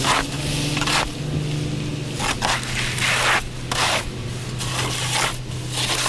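Plow truck's engine running steadily under repeated rough scraping, the plow blade scraping the pavement and pushing wet, slushy snow in irregular bursts.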